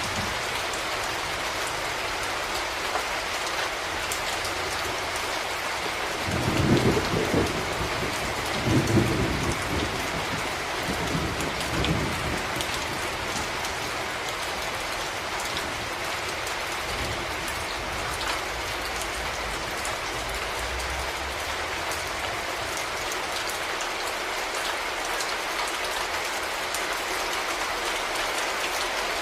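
Steady rain falling throughout. About six seconds in, a low rumble of thunder rolls in, swelling twice and dying away by about twelve seconds.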